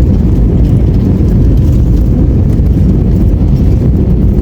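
Loud, steady low rumble inside an airliner's cabin on the landing roll just after touchdown, with engine noise and the rattle of the wheels rolling along the runway.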